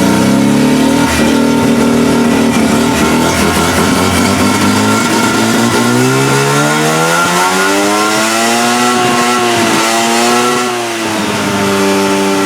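Mazda rotary engine running. Its pitch climbs over several seconds, wavers, drops back shortly before the end, then holds steady.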